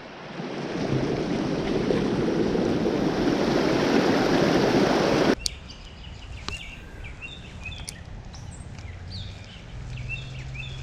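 Rushing creek water, a loud steady rush that cuts off abruptly about five seconds in. Quieter outdoor ambience follows, with small birds chirping and a few sharp clicks.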